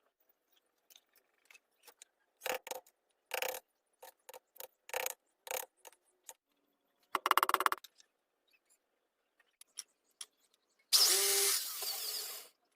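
Hand-work sounds while building a small bamboo fan: a string of light knocks and clicks, a brief fast rattle about seven seconds in, then a louder rasping noise lasting about a second and a half near the end.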